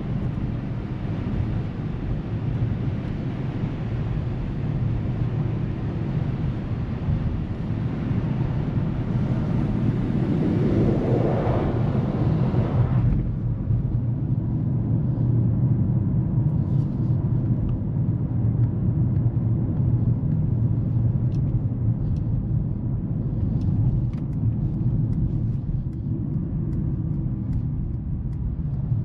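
Mercedes-AMG GLC 43 Coupe on the move: a steady low road-and-engine rumble. A hiss of wind and tyre noise over it swells about ten seconds in, then cuts off suddenly around thirteen seconds, leaving the low rumble.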